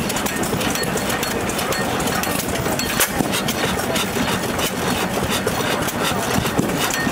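Old hit-and-miss stationary engine running, with a steady mechanical knocking and two louder bangs, about 3 and 6.5 seconds in, as it fires between coasting strokes.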